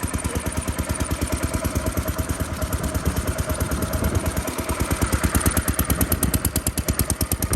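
Old single-cylinder stationary farm engine running close by, with a rapid, even beat of firing strokes.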